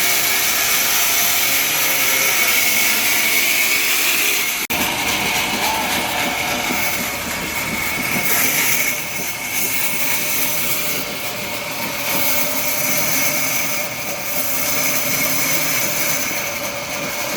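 Sawmill saw running: a loud, steady mechanical whine with several high steady tones, broken off for an instant about five seconds in.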